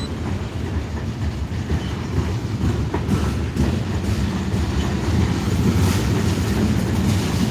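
Freight train rolling past on the rails: a steady, loud low rumble of cars and wheels, with faint scattered clicks.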